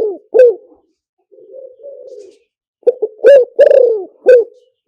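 Spotted dove cooing. A soft, low coo comes about a second in. Near three seconds in, a loud phrase of several short coos follows.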